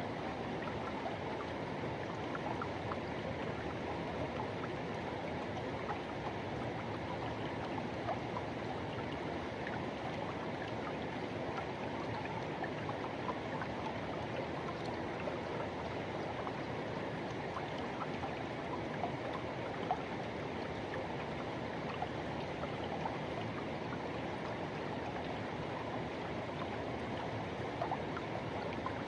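Forest river rushing steadily over rocks, an even wash of water noise with small splashes and gurgles scattered through it.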